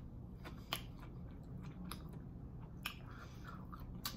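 A person chewing food close to the microphone, with a few soft, wet mouth clicks.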